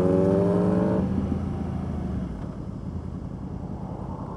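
Yamaha R1's inline-four engine pulling with a rising pitch, then the throttle is closed about a second in and the sound drops to a quieter, steady running rumble.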